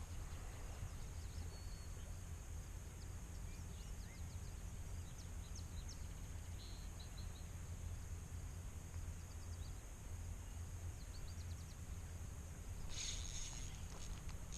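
Steady low rumble of flowing river water with faint bird chirps over it, and a brief hissing burst near the end.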